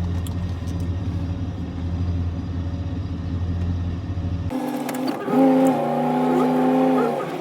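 Hook-lift truck's engine running steadily with a low hum. About four and a half seconds in the sound changes abruptly to a louder, higher-pitched mechanical whine that wavers slightly in pitch before easing off near the end.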